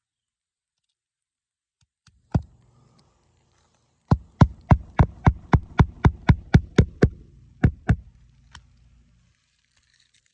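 Hammer driving a roofing nail through an asphalt shingle: a single strike, then a quick even run of about a dozen strikes at about four a second, and two more.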